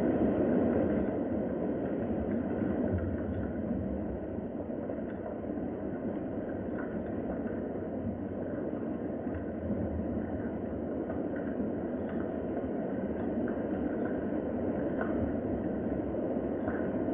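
Steady rain ambience: an even, rushing wash of noise with a low rumble beneath it and faint scattered ticks of drops.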